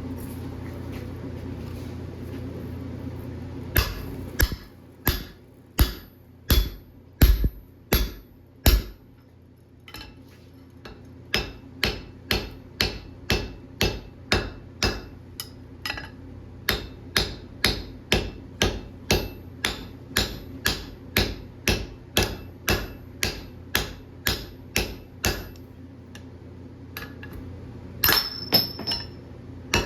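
Hammer blows forging a hot steel bar on an anvil. About four seconds in come nine or so heavy strikes, then a short pause, then a long run of quicker, lighter blows, with a few ringing strikes near the end. A steady low hum runs underneath.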